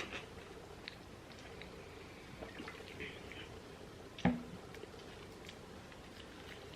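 Quiet eating sounds: faint wet mouth noises and small clicks, with one sharper click about four seconds in.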